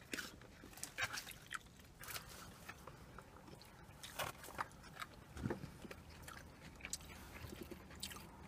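Close-up chewing and mouth sounds of people eating, faint irregular clicks and smacks, with a plastic fork scooping rice from a foam takeout container.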